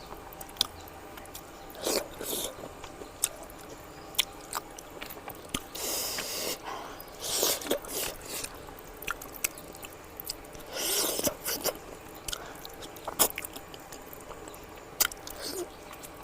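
A person eating mutton fat curry close to the microphone: chewing with wet mouth smacks and clicks, and a few louder short rushes of noise.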